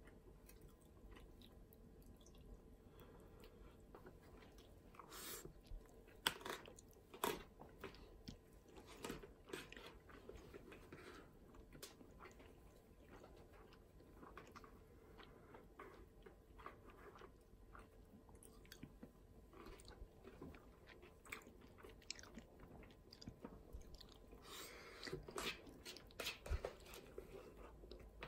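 Quiet, close chewing of stir-fried udon noodles and rice, with scattered short clicks and taps from the mouth and from chopsticks and a spoon on a plastic food tray. The clicks come louder a few seconds in and again near the end.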